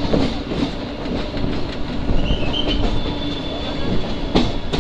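Passenger train running on the rails as it moves out of a station, heard from on board: a steady rumble and hum with the wheels clacking over rail joints, and one sharp clack near the end.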